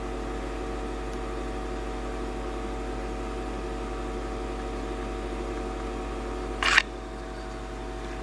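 Steady background hum with several steady tones, broken once by a short sharp click about two-thirds of the way through.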